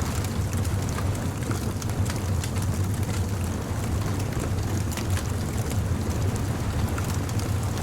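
Beach bonfire crackling with frequent small irregular pops, over a steady low rumble of surf and wind.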